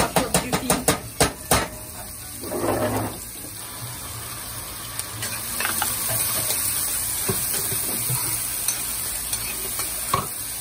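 Chopped onion and pimento peppers sizzling in hot vegetable oil in a pot as they are stirred, the sizzle growing louder from about five seconds in. A quick run of about eight sharp knocks, utensil on pot, opens it, with a few lighter clicks later.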